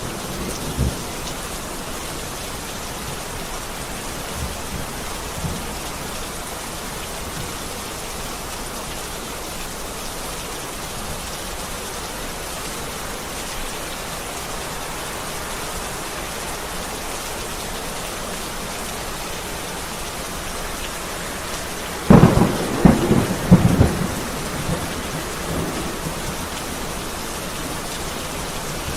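Heavy rain pouring steadily, with a loud thunderclap about three-quarters of the way through that cracks suddenly and rumbles for a couple of seconds.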